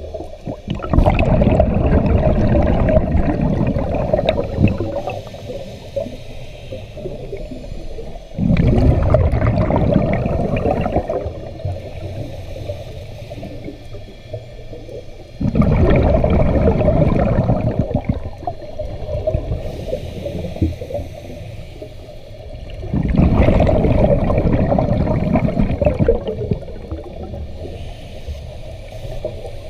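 Scuba diver breathing through a regulator underwater: four long exhalations, each a loud rush of bubbles lasting about three to four seconds, about seven seconds apart, with quieter inhalations between.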